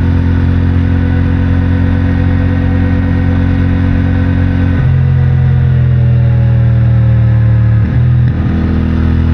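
CFMOTO 450MT's parallel-twin engine running through its stock exhaust at a steady pitch, with a step in tone about five seconds in and a brief dip about eight seconds in.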